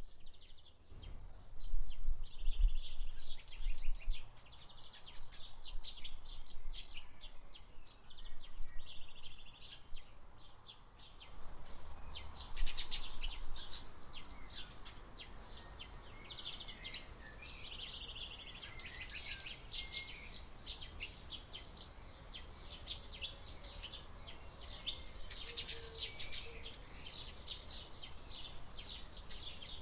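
Several songbirds chirping and singing over a steady hiss of flowing river water. Low rumbles come in the first few seconds and again about twelve seconds in.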